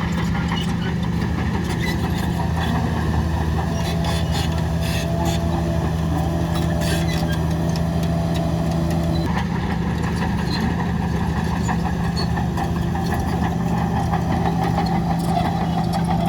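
Heavy diesel engine of earthmoving machinery, a bulldozer or dump truck, running steadily, with scattered light clicks and rattles. A higher tone in the engine sound drops out about nine seconds in.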